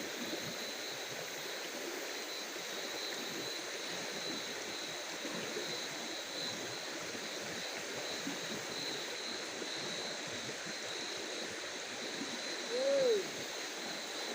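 Night-time waterside ambience: a steady rushing hiss like flowing water, with a steady high-pitched insect-like drone over it. Near the end comes one short call that rises and then falls in pitch.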